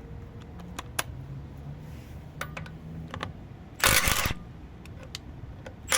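Scattered clicks of a 12 V cordless impact wrench being handled and set up, then a short burst of the wrench running and hammering about four seconds in.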